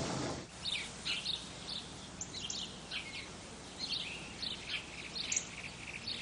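Birds chirping outdoors: many short, high calls, about three a second, over a quiet background.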